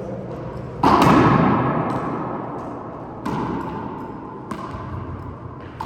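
Handball rally: the rubber ball smacks against hands and the court walls three times, the first and loudest about a second in, each hit ringing on in the enclosed court.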